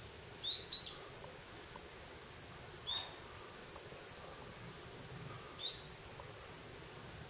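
A bird giving short, high calls, each a quick downward sweep that ends on a brief steady note. Two come close together in the first second, then single calls at about three seconds and near six seconds, over a faint steady background hiss.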